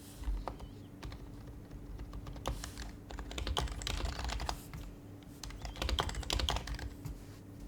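Typing on an HHKB Professional HYBRID Type-S keyboard with its Topre electro-capacitive switches: irregular runs of soft keystrokes, with two busier bursts, one in the middle and one shortly before the end.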